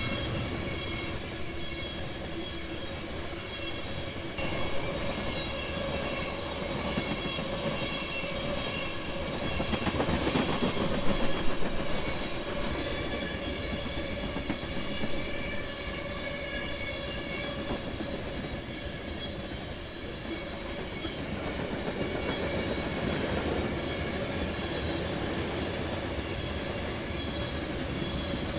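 A freight train rolling past, wheels clicking and rumbling on the rails, with a steady high ringing tone over the rumble and a louder stretch about ten seconds in.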